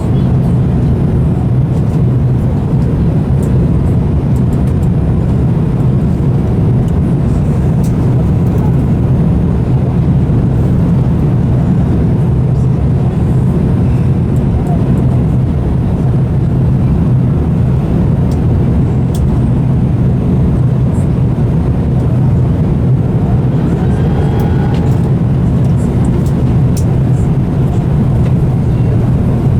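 Steady low rumble of an airliner's engines and airframe heard inside the passenger cabin, unchanging in level throughout.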